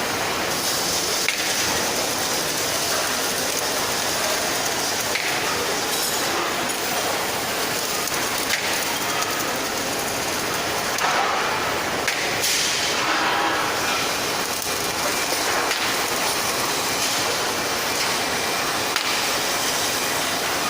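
Steady, loud hissing machine noise with a few faint clinks.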